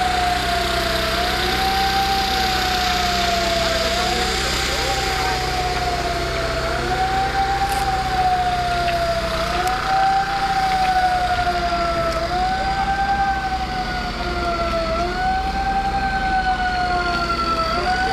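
Emergency vehicle siren wailing: the pitch rises quickly and then sinks slowly, over and over about every three seconds, over a steady low hum and background noise.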